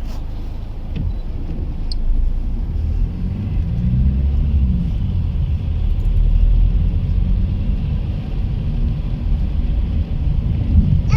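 A car driving, heard from inside: a steady low engine and road rumble, with the engine note rising and falling about three to five seconds in.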